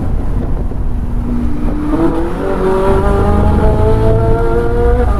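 Ferrari 458 Italia's 4.5-litre V8 with an Armytrix valvetronic exhaust accelerating, heard from inside the cabin. The engine note climbs steadily for about three seconds, then drops suddenly near the end with an upshift.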